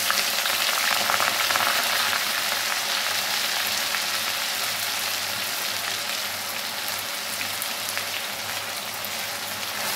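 Ground onion paste sizzling in hot oil in a kadhai, a dense crackling hiss that eases slightly toward the end.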